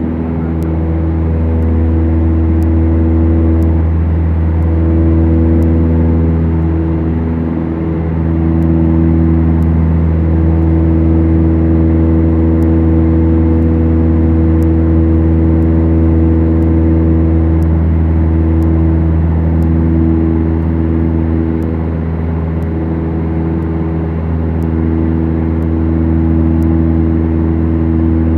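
Twin four-cylinder Lycoming engines and propellers of a Beechcraft Duchess running steadily, a constant engine and propeller tone with a slight waver in a few of its tones now and then.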